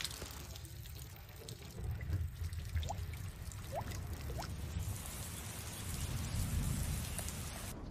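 Rain falling and dripping into puddles, an even patter with three short rising water-drop plinks around the middle.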